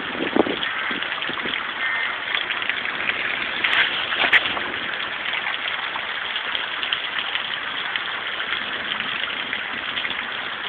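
Hail and rain coming down: a continuous rushing patter of hailstones striking, with a couple of louder hits about four seconds in.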